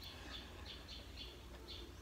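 Close-miked chewing of rice and chicken curry: soft, wet mouth clicks and smacks, a few times a second.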